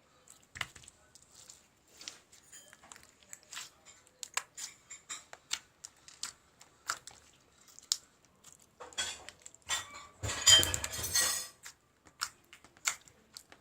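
Clattering and clinking of small hard objects: many short knocks, with a louder burst of rattling about ten seconds in.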